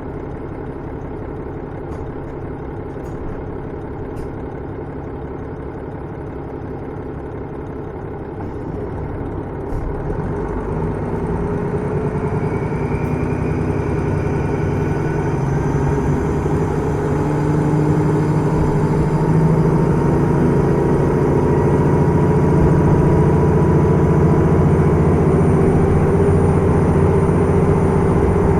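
Diesel engine of a KiHa 110 series railcar (KiHa 112), heard from inside the car, idling steadily, then about ten seconds in opening up as the train pulls away, its note rising slowly and growing louder as it accelerates.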